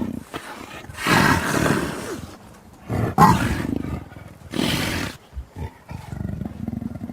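Lion roars and snarls as sound effects: a series of rough, loud bursts, the longest starting about a second in and further ones near three and four and a half seconds, with lower growls between.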